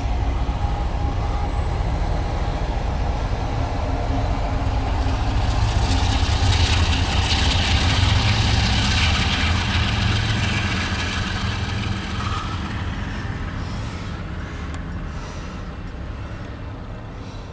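Freight train rolling past, a steady rumble of wheels and cars that builds to its loudest about halfway through and then slowly fades as the train moves away.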